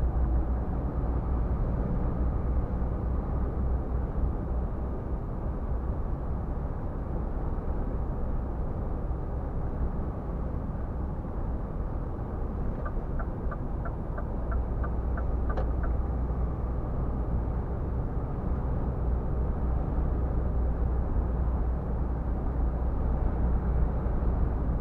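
Scania R450 truck cruising on a highway: steady engine and road rumble from its inline-six diesel. About halfway through comes a short run of about nine quick, evenly spaced ticks.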